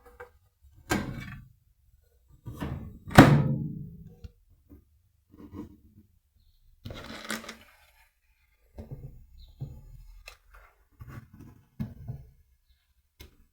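Handling noises: a scattered series of knocks, thunks and light clicks as a glass of water is taken out of a microwave oven and a thermometer probe is put into it. The loudest is a sharp thunk about three seconds in.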